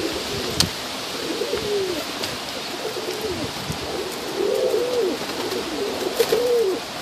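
Domestic pigeons cooing, a string of low coos that rise and fall, about one a second, over steady wind noise, with a few sharp clicks.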